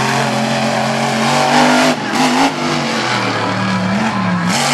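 Monster truck engine running hard at high revs, the pitch dipping and wavering as the throttle is eased off about two seconds in and again near the end.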